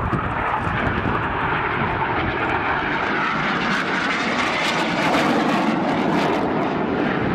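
Fixed-wing aircraft flying past, its engine noise sliding down in pitch as it goes by.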